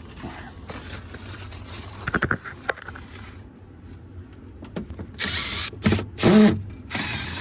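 Hand-work noises: a few sharp clicks about two seconds in, then three short scraping rasps near the end.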